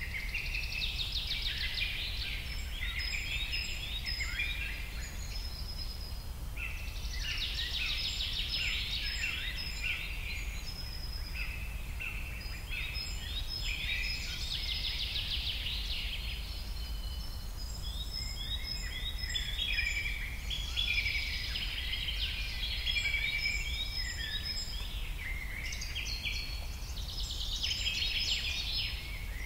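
Many birds chirping and trilling in overlapping bursts over a low steady rumble.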